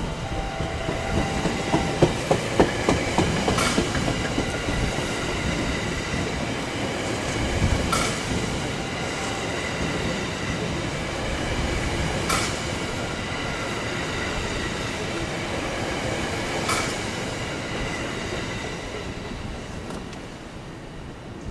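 A JR West 225 series electric multiple unit passing through the station: a steady rumble of wheels on rail with a faint high whine, and sharp clicks about every four seconds. It fades over the last few seconds as the train moves off.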